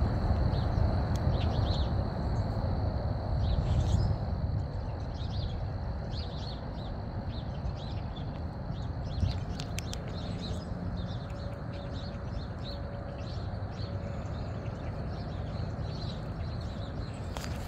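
Small birds chirping in short, high calls scattered throughout, over a low wind rumble on the microphone that eases after the first few seconds. A few sharp clicks about halfway through.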